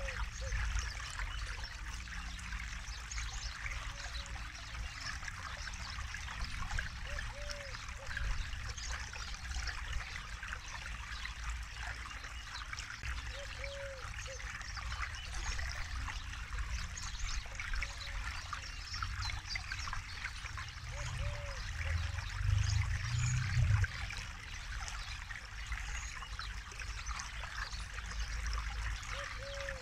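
Forest river water streaming and trickling over rocks in a steady rush, with a low rumble beneath. A short low call repeats faintly every few seconds, and the rumble swells briefly about two-thirds of the way through.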